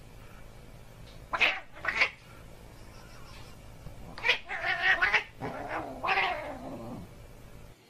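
Tabby cat caterwauling: two short cries about a second and a half in, then a longer yowl from about halfway through that drops in pitch near the end.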